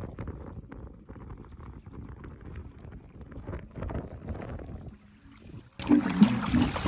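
Wind rumbling against the microphone with scattered clicks and knocks. About six seconds in it drops out and background music starts abruptly.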